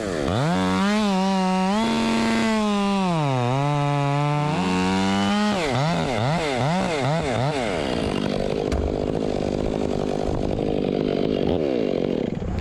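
Two-stroke chainsaw revving high, dropping in pitch briefly as it slows and then picking up again, followed by a run of quick throttle blips. For the last few seconds it gives way to a rougher, grinding noise.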